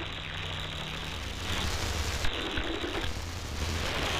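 Static and hum from an HF radio receiver tuned for distant CB stations, with faint, garbled voices breaking through the noise about a second and a half in.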